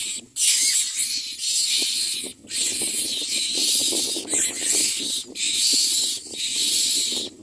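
Common myna nestlings giving harsh, hissing begging calls in long raspy stretches, broken by short pauses every second or two.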